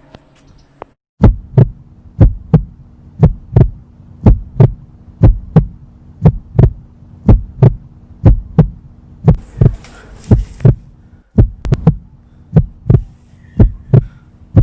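Heartbeat sound effect: paired lub-dub thumps about once a second over a steady low hum, starting about a second in, with a brief break near the end. It is used to convey fear in a scary moment.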